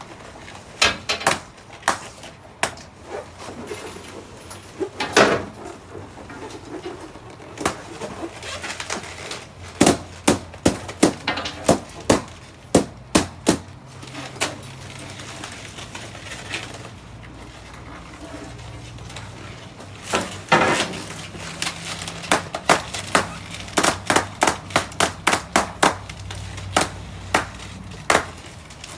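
Balloons popping one after another at an uneven pace: dozens of sharp pops, scattered at first and coming in a fast, dense run over the last third.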